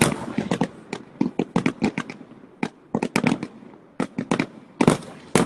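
Fireworks going off in quick, irregular bangs that come in clusters, with crackling between them; the loudest bangs come right at the start and near the end.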